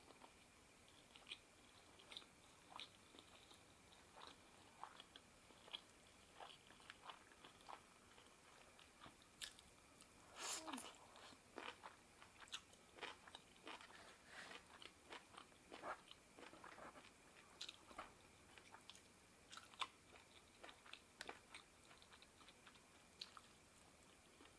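Quiet close-up eating sounds: a person chewing and biting food, with scattered soft mouth clicks and crunches that are busiest in the middle stretch.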